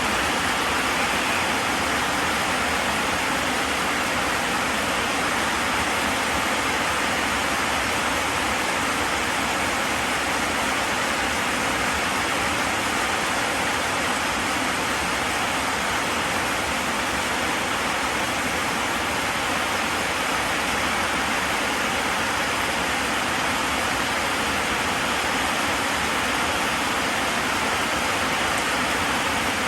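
Steady, even rushing of heavy falling water, as of pouring rain or a waterfall.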